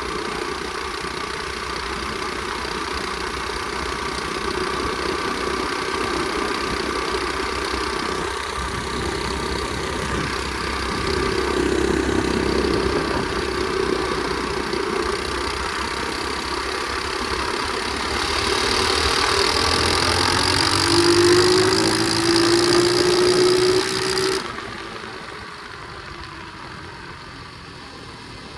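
Flywing pit bike engine running under way. About two-thirds through it gets louder with a rising pitch as it accelerates, then the sound drops off suddenly near the end as the throttle is let off.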